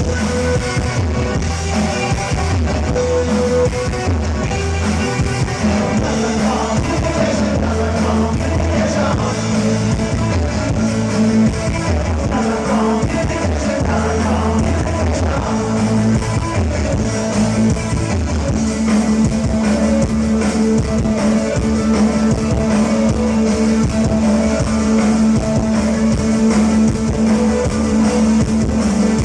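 Live new wave rock band playing a song, with drums, bass, guitar and synthesizer, and a lead singer's voice for much of it.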